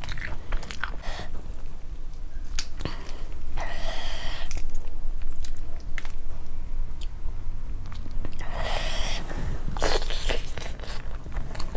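Close-miked eating sounds: wet chewing of spiced chicken eaten by hand, with many short lip smacks and mouth clicks. Two longer, louder stretches of chewing come about four seconds in and again near nine seconds.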